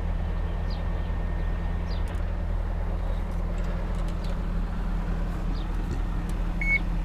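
Yanmar crawler excavator's diesel engine running steadily, with a short electronic beep near the end.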